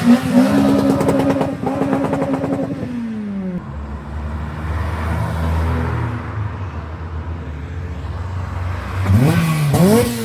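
Modified cars pulling away, engines revving. A rev climbs and holds for about three seconds, then falls away. A low, steady engine rumble follows, and another car revs up near the end.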